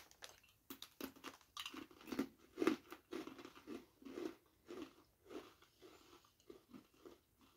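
People chewing crunchy cricket-flour herb crackers with their mouths closed: a run of crunches about two a second, growing fainter near the end.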